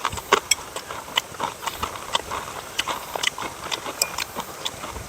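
Irregular light clicks and taps, a few a second, from eating at close range.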